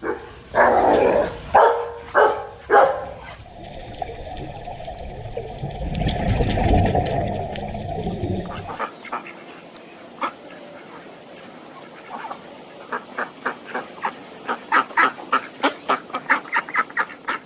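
Ducks quacking in a run of short quacks that comes faster and louder toward the end. This follows a few loud animal calls at the start and a stretch of low rumbling background noise.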